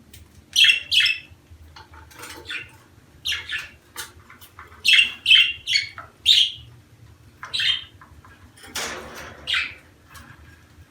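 Budgerigars chirping: short, sharp calls in irregular clusters, with one harsher, noisier squawk about nine seconds in.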